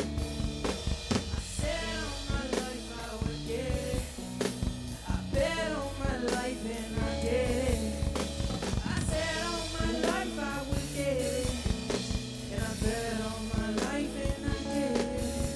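Live band music: a drum kit and bass keep a steady beat under a sung, wavering vocal melody.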